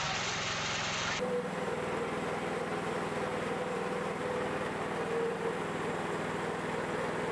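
Wood-Mizer sawmill's engine running steadily, with a held tone; the sound changes abruptly about a second in.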